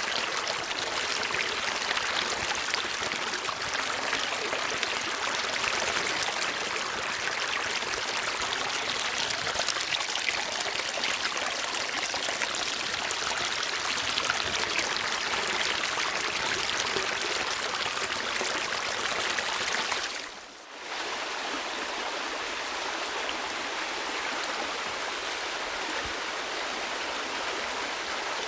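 Steady rushing of flowing water, like a stream. About two-thirds of the way through it drops out for a moment, then resumes a little softer.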